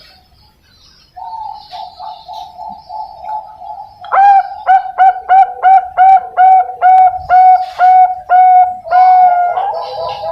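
Zebra dove (Bangkok-line perkutut) singing: a soft rolling run of notes about a second in, then from about four seconds a loud string of clipped coos, roughly three a second, closing with a longer note.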